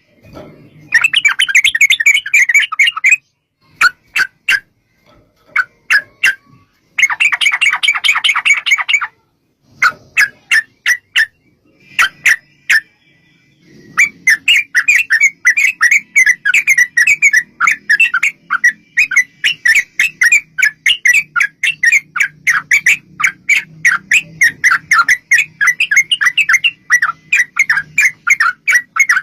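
Yellow-vented bulbul (trucukan) calling with rapid chattering runs. Short bursts are broken by spaced single notes, then a long unbroken chatter starts about halfway in.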